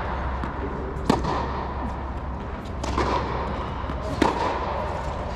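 Tennis ball being struck with a racket during a drill: three sharp hits, a second or two apart.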